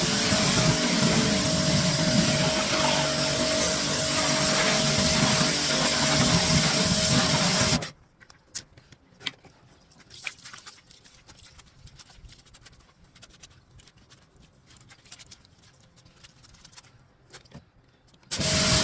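A motor-driven cleaning machine running loud and steady with a humming tone. It cuts out suddenly about eight seconds in, leaving quiet with a few small clicks and knocks, and starts running again shortly before the end.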